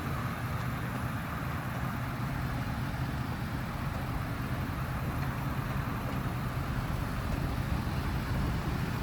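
Pickup truck engine running steadily as it tows a travel trailer out of a campsite, a low even hum.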